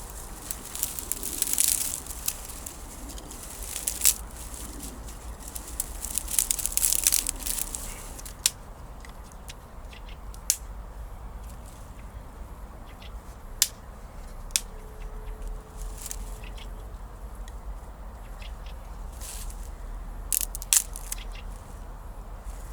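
Dry grass and small sticks being crumpled, broken and arranged to lay a campfire: dense rustling and crackling for the first several seconds, then scattered sharp snaps.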